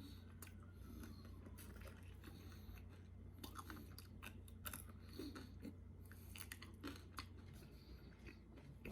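Faint chewing and crunching of fried chicken, a scatter of small crisp crunches and clicks.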